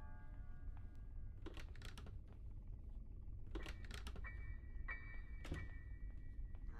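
A handful of faint, light clicks in small clusters, with a faint held tone in the second half, over a low steady hum.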